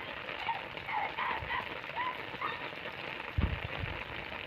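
Heavy rain falling steadily, with a few faint short calls over it in the first half and low thumps about three and a half seconds in.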